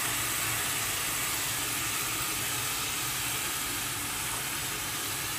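Chopped onions sizzling in hot oil in a frying pan over a high flame: a steady, even hiss.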